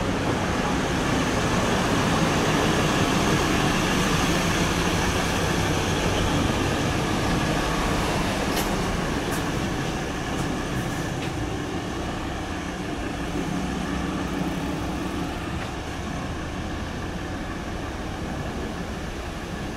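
Echizen Railway train running, loudest a few seconds in and then slowly fading as it pulls away, with a few sharp clicks about halfway through.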